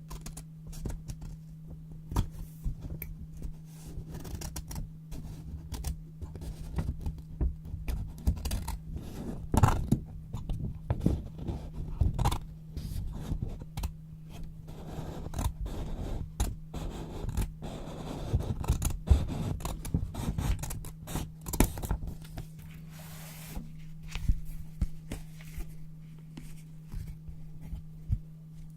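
Scissors snipping through sheets of paper, with irregular crisp cuts and paper rustling over a steady low hum. The cutting thins out about two-thirds of the way in as the paper is handled.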